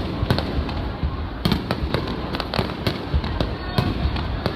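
Aerial fireworks shells bursting in quick succession: a dense run of sharp bangs, several a second, over a low rumble, with the strongest bang about a second and a half in.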